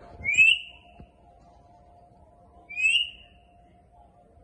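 Indian ringneck parakeet giving two short rising whistles, about two and a half seconds apart. A faint steady hum runs underneath.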